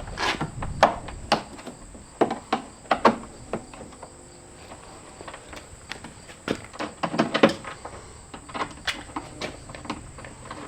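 Irregular knocks and clatters, about a dozen sharp hits with a denser cluster a little past the middle, over a thin steady high-pitched tone.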